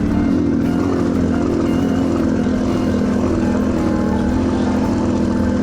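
Yamaha TTR230's single-cylinder four-stroke engine running rough and uneven, not firing properly: a misfire the owner puts down to a weak battery.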